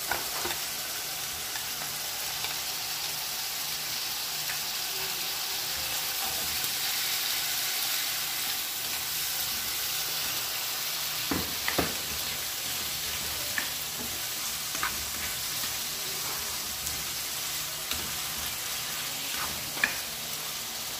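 Squid and raw shrimp sizzling steadily in hot sauce in a wok, with a few sharp taps and scrapes of a spatula as they are stirred.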